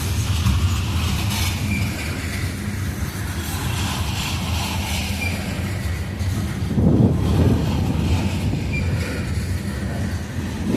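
Loaded coal train rolling past, a steady low rumble of wheels on rail with a few brief high squeaks and a louder surge about seven seconds in.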